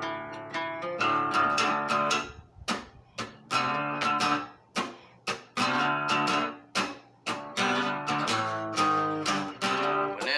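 Guitar played as an instrumental break: a few held picked notes, then chords strummed in a choppy rhythm, each stroke cut off sharply with short silences between.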